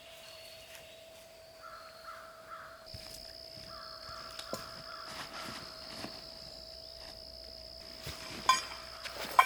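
Outdoor woodland ambience: a bird gives a few short, repeated calls over a steady high-pitched drone. Two sharp clicks near the end are the loudest sounds.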